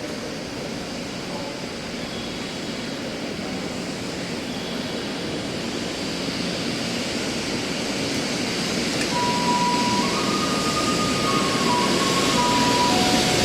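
0-series Shinkansen train running, its steady rushing noise growing louder throughout. From about nine seconds in, a string of plain single tones steps up and down in pitch over it.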